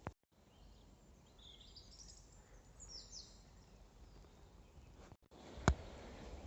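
Faint birdsong outdoors: a few short chirping phrases about two to three seconds in, over a quiet background. A single sharp click near the end.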